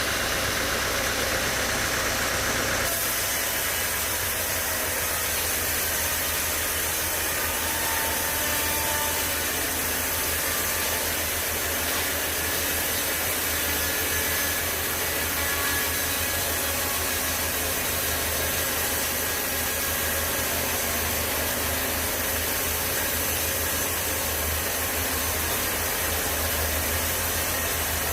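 Sawmill machinery running with a steady mechanical drone and low hum. About three seconds in, the high hiss drops off abruptly while the drone carries on.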